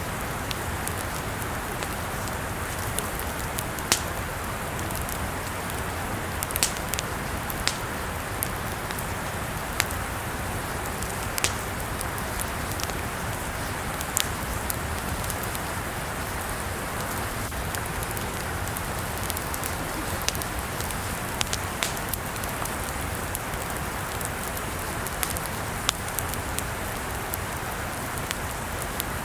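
Campfire burning: a steady hiss with sharp crackles and pops of burning wood at irregular intervals, a few seconds apart.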